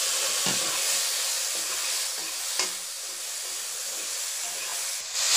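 Chopped tomato sizzling in hot oil with dry red chillies and cumin in a metal kadai, with a few clicks of the steel ladle against the pan. The sizzle eases off over the first few seconds.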